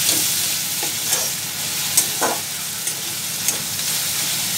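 Chopped tomato, garlic and onion sizzling in oil in a metal kadai, stirred with a metal spatula that scrapes and taps against the pan a few times over a steady frying hiss.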